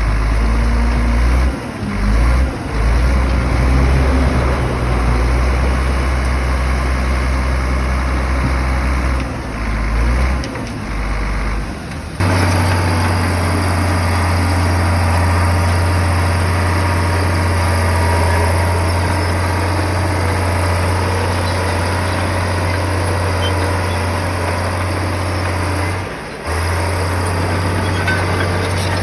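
Heavy diesel earthmoving machinery running steadily, its engine note low and strong. The pitch changes abruptly a few times, shifting higher about twelve seconds in.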